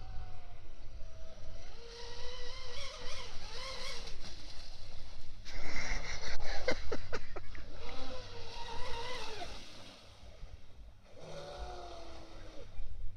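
Traxxas M41 RC speedboat's brushless electric motor whining as it runs on the water, its pitch rising and falling several times with the throttle, dropping away briefly about ten seconds in.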